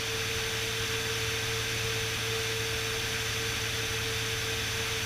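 Steady drone of a Beechcraft Bonanza S35's piston engine and propeller in cruise descent, heard inside the cabin, with a thin steady whine over a low hum.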